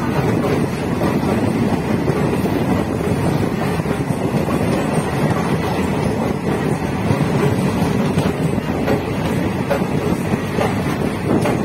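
DEMU (diesel-electric multiple unit) passenger train running, heard from on board: a steady rush of wheel, engine and wind noise.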